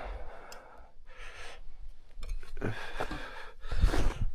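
A person breathing hard in repeated gasps, with gusts of wind buffeting the microphone.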